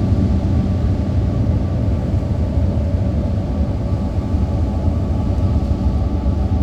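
A steady, loud low rumble with faint held tones above it, unchanging throughout.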